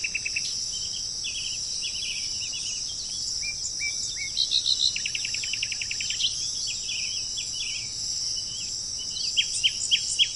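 Birds chirping and trilling over a steady high-pitched insect drone, with a fast rattling series of notes about five seconds in and sharp down-slurred calls near the end.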